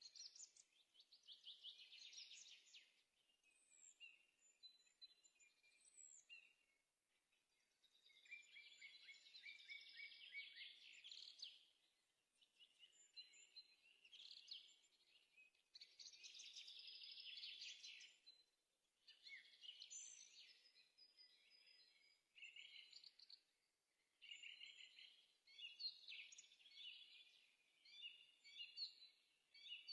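A small songbird singing faintly: phrase after phrase of rapid, high trills and chirps, with short pauses between phrases.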